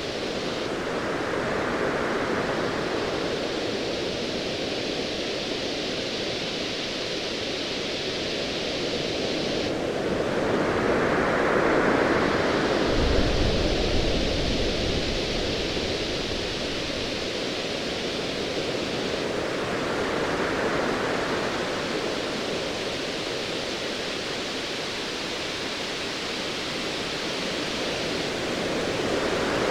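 Ocean waves washing in a steady hiss-like noise that swells about every nine to ten seconds, with a low rumble of distant thunder from about thirteen seconds in, lasting a few seconds.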